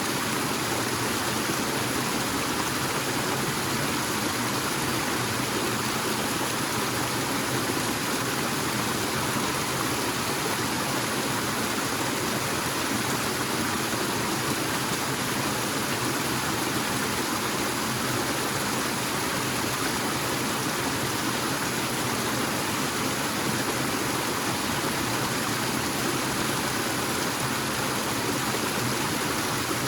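Forest waterfall: a steady rush of falling water that does not change.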